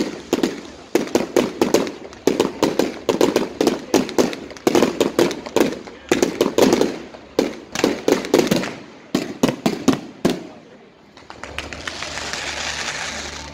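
Aerial fireworks going off in rapid volleys of sharp bangs and crackles, which stop about ten seconds in, giving way to a softer, steady noise.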